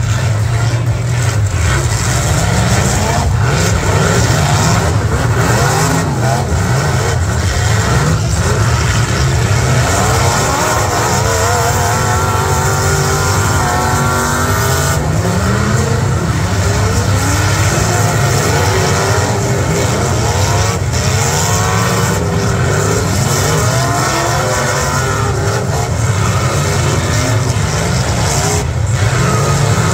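Several V8 demolition derby cars running and revving hard together, their engine notes rising and falling over one another.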